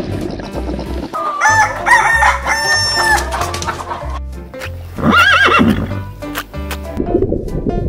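Rooster crowing about a second in, several held, pitched notes, over background music with a steady beat. A shorter wavering animal call follows about five seconds in, and a rough, low roar-like sound starts near the end.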